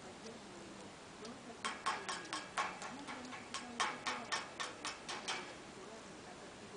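A cockatiel tapping with its beak: a run of sharp taps, about four a second, starting nearly two seconds in and stopping a little after five seconds.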